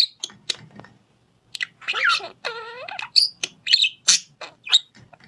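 Parrot calling: a string of short sharp squawks and chirps, with one longer, wavering call about two and a half seconds in, after a brief pause near the start.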